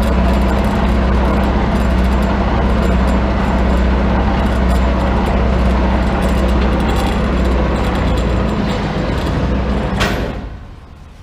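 Grob 6V-36 vertical band saw, driven by its 15 hp three-phase motor through the gearbox, running steadily at its lowest blade speed with a low hum. About ten seconds in there is a sharp click and the machine sound dies away within about half a second as it is stopped.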